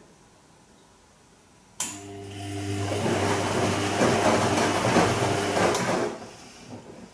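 Bosch Serie 2 Vario Perfect washing machine's motor turning the drum for about four seconds during the gentle Silk wash: a sudden start with a click about two seconds in, a steady low hum under a rushing noise that builds, then dies away.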